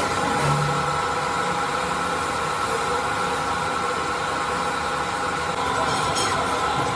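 Machine-shop lathe running steadily while machining a crankshaft, with a steady whine of several tones.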